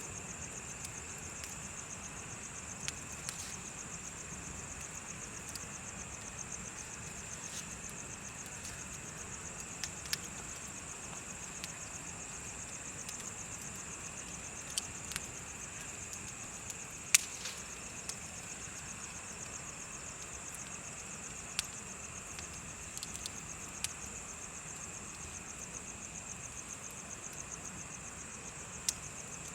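Insects chirping in a steady high trill, with a bonfire crackling in scattered sharp pops; the loudest pop comes a little past halfway.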